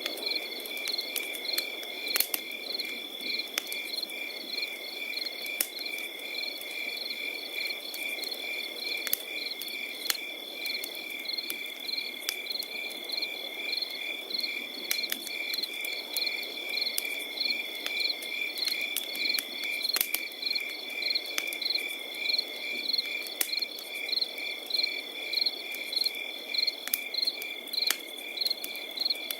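Crickets chirping, one in a steady high trill and others pulsing a few times a second, over a crackling campfire with sharp pops scattered throughout.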